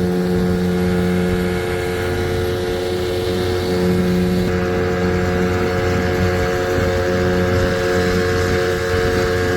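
Evinrude 15 hp two-stroke outboard motor running steadily under way, holding an even pitch.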